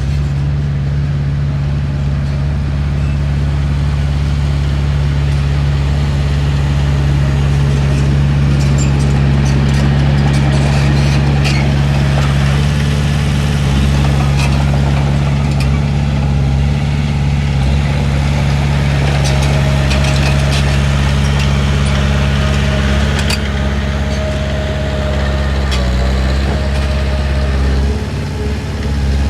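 Diesel engine of a Komatsu D31P crawler bulldozer running steadily at a low, even pitch, with scattered clanks and knocks over it.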